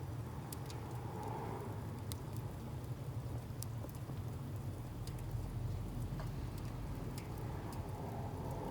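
Wood fire crackling: scattered sharp pops and snaps from burning firewood over a steady low rumble.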